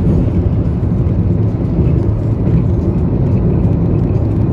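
Steady low rumble of road and engine noise from a car cruising at freeway speed, heard from inside the cabin.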